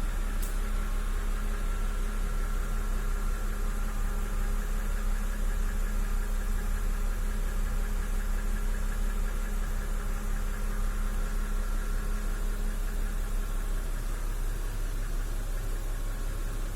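BMW N52B25 2.5-litre straight-six idling steadily with a knocking noise, which the owner suspects comes from a hydraulic lifter, the camshaft journals or the crankshaft bearing shells.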